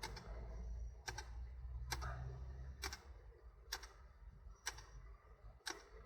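Computer mouse clicks, sharp and single, about once a second, made while selecting options in diagnostic software, over a faint low hum that fades out about three seconds in.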